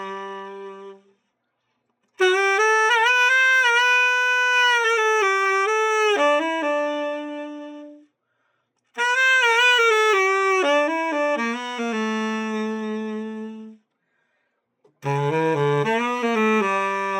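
Selmer Reference 54 tenor saxophone played in short melodic phrases, each ending on a held note, with brief silences between them: a play test after its full overhaul. A held note dies away about a second in, and three more phrases follow.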